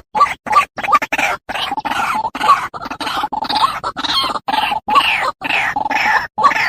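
White-breasted waterhen (ruak-ruak) calling: a rapid series of harsh, croaking calls, about two to three a second, broken by short silent gaps. It is the bird's territorial call, used as a lure call.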